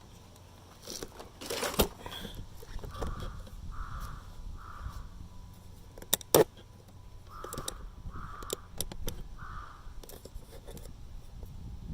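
A crow cawing in two runs of three caws, over sharp clicks and knocks of hand tools on metal as a part is worked off the scooter's drive pulley; the loudest knock comes a little past the middle.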